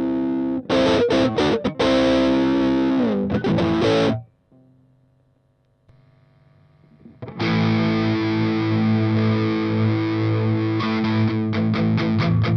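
Electric guitar, a Stratocaster played through the Valeton Dapper Mini pedal with a distorted tone: choppy chords ending in a downward slide, then a pause of about three seconds, then a held chord followed by quick rhythmic strumming near the end.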